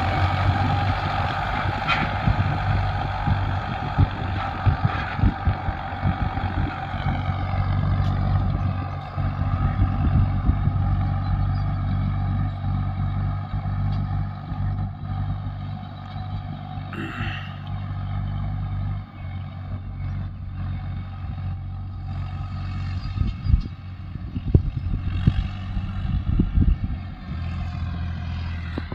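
Tractor engine running steadily, its pitch holding, with a dip in level about two-thirds of the way through and a few sharp knocks near the end.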